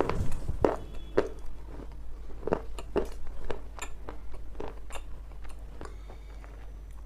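Crunchy food being bitten and chewed close to the microphone: a string of sharp crunches, several a second at first, thinning out and growing fainter toward the end.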